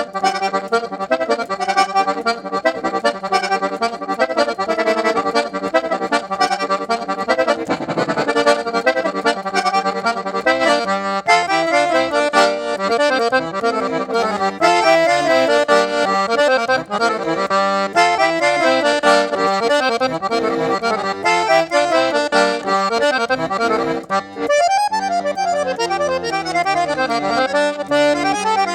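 Accordion playing a tune with quick runs of notes, over a held low note through the first part, with a brief drop in level near the end.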